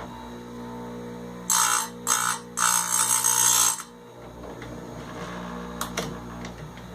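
Electric chainsaw-chain grinder's motor running with a steady hum, and the abrasive wheel grinding against the chain's cutters in three harsh bursts, from about a second and a half in until about four seconds in.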